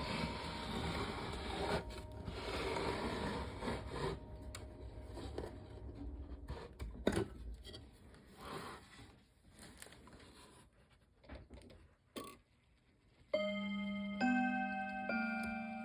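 Seth Thomas electric beehive clock's chime mechanism: after rustling and scattered clicks, its chime starts near the end, with notes struck one after another and left ringing over each other.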